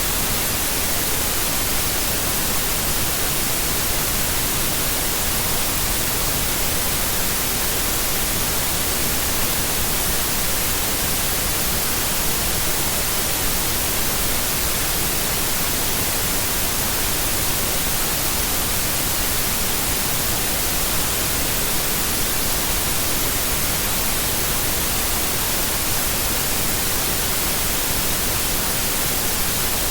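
Steady white noise: an even, unbroken hiss, strongest in the treble, at a constant level.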